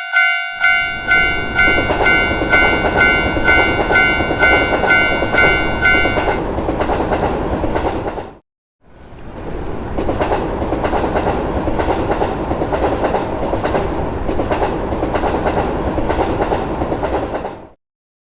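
Level-crossing warning bell ringing about twice a second, then stopping about six seconds in, as an electric train runs over the crossing with a rhythmic clatter of wheels on rail joints. The train noise cuts out abruptly just past eight seconds, starts again a moment later and stops near the end.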